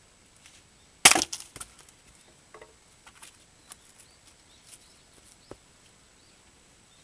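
An axe strikes a dried larch log once about a second in, a sharp crack of wood, followed by a scatter of lighter knocks and clicks over the next few seconds.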